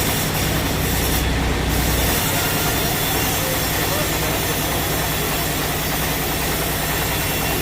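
Sawmill machinery running steadily: a continuous mechanical noise over a low, even hum.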